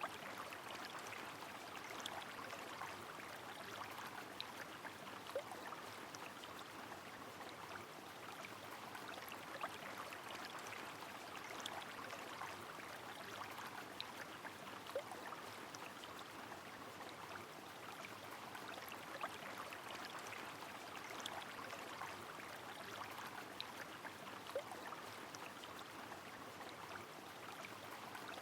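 Rain falling by a flowing river: a steady, faint wash of water noise with scattered small drop ticks.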